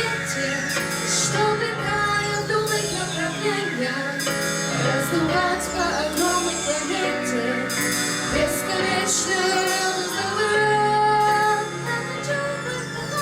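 A vocal group performing a song: female voices singing over instrumental accompaniment, at a steady level.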